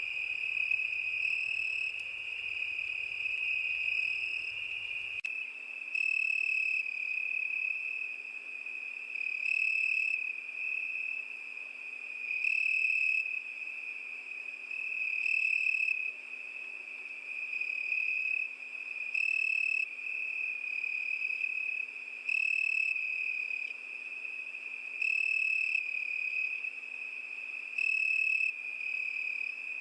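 Cricket singing a steady high trill that swells louder in regular pulses about every three seconds.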